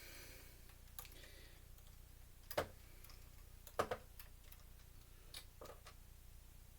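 A few scattered clicks and light knocks from handling a Blu-ray player's casing, the loudest about two and a half seconds in and a quick double knock near four seconds in.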